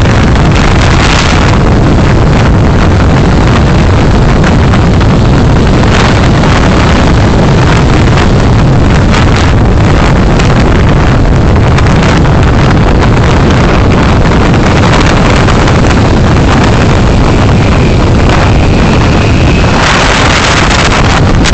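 Steady, loud rumble of road and wind noise on a dashcam microphone while driving. The hiss grows brighter near the end.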